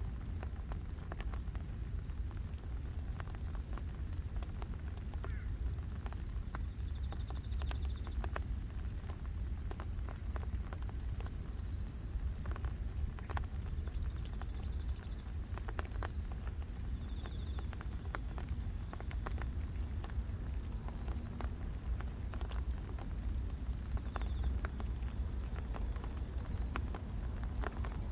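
Grass insects such as crickets calling together: one steady high trill over a lower, pulsing chirp, with a low steady rumble underneath.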